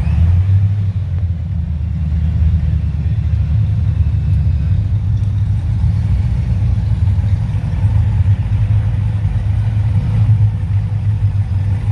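Car engine running close by with a deep, steady exhaust rumble.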